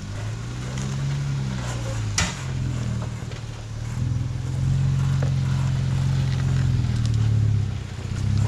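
Jeep engine running at low speed, its pitch rising and falling with the throttle as it crawls a rocky off-road line. There is one sharp knock about two seconds in.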